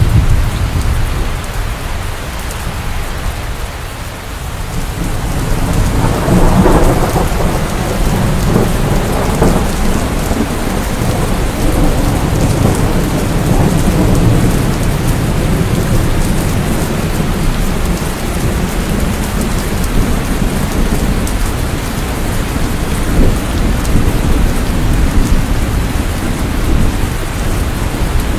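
Steady rain falling with rolling thunder. A thunder rumble swells about six seconds in and keeps rolling under the rain.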